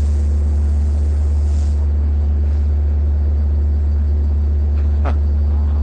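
DM30AC diesel locomotive idling: a steady low engine rumble with a constant hum over it. A brief higher-pitched sound cuts in about five seconds in.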